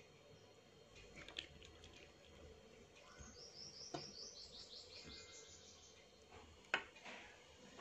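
A bird chirping faintly in the background: a quick run of about a dozen short high notes, about four a second, over near silence. A few soft clicks, with one sharp click near the end as the loudest sound.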